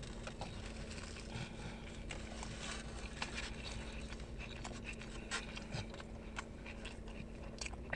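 Quiet mouth sounds of a person chewing a bite of taco, with faint scattered clicks and light rustles from handling the paper-lined foam takeout tray, over a steady low hum.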